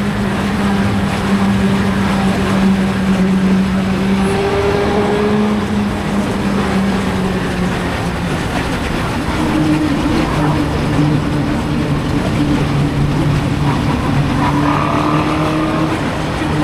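Suzuki GSX-R750 inline-four engine running at steady revs on the move. About nine seconds in, the engine note drops to a lower pitch and holds there.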